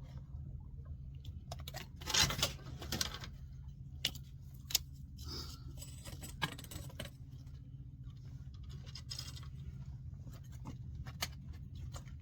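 Handling noises: scattered sharp clicks, taps and short rustles, the loudest about two seconds in, over a steady low hum.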